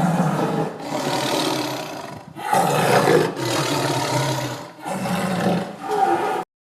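A large animal giving a series of about five loud, harsh, drawn-out roaring calls, one after another with short breaks, cut off abruptly near the end.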